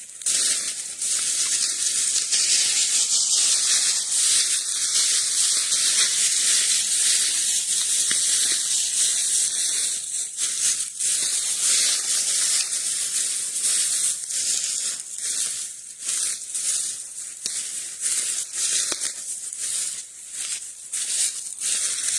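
Footsteps crunching and rustling through dry leaf litter and brush, a continuous crackle of breaking leaves and twigs.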